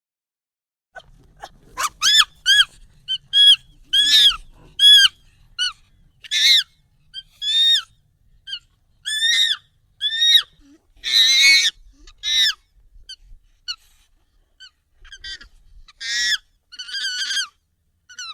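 Monkey calls, sped up and pitched up: a long series of short calls, each arching up then down in pitch, starting about a second in, with a brief lull about two thirds of the way through.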